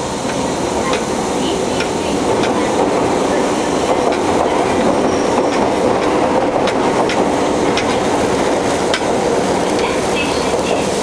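Fukuoka City Subway N1000-series train running at speed, a steady rumble with scattered clicks from the wheels on the rails. It comes from a car that gives off an abnormal jet-like noise like that of the JR 811 series.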